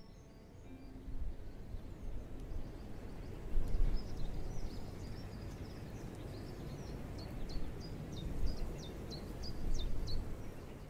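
Outdoor ambience with a low, uneven rumble and small birds chirping: a run of quick, high, downward chirps starting about two seconds in.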